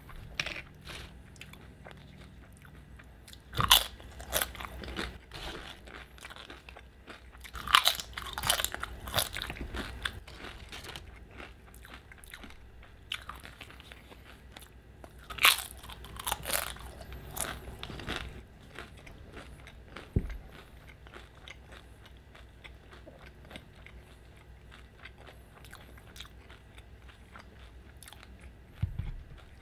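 Crisp tortilla chips bitten and chewed close to the microphone: loud crunches in clusters about 4 s, 8 s and 16 s in, with quieter chewing between and through the later part.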